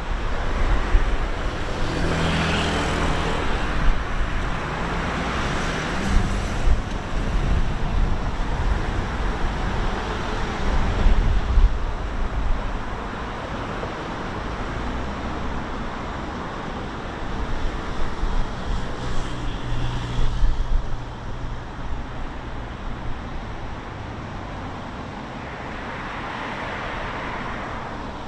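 Road traffic: vehicles passing one after another, swelling and fading, with a low engine drone now and then from a heavier vehicle.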